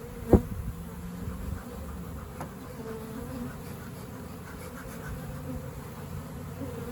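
Honeybees buzzing in a steady, wavering hum around an opened hive, the colony agitated by the disturbance. A sharp knock about a third of a second in, and a lighter click a couple of seconds later.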